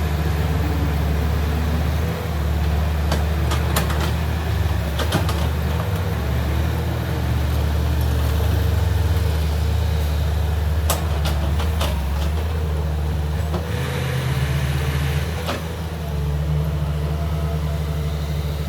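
Heavy diesel engine of earthmoving machinery running steadily with a low drone, with a few sharp knocks a few seconds in and again past the middle.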